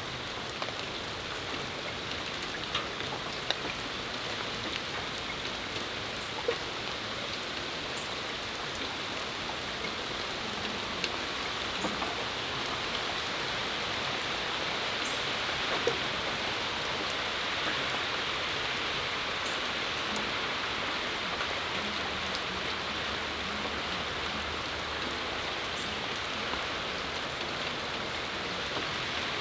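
Steady rain shower falling on a back patio, an even hiss with scattered individual drips and ticks.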